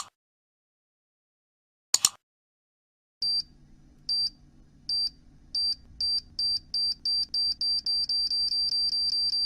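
Two short sharp clicks, then a time-bomb countdown sound effect: a high electronic beep that repeats faster and faster until it is almost one continuous tone.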